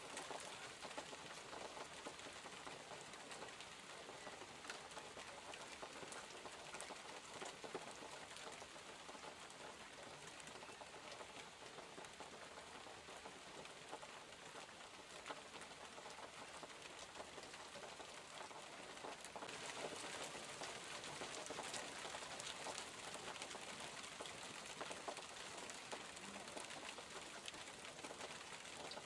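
Steady rain falling, with many individual drops tapping on surfaces. It grows heavier and louder about two-thirds of the way through.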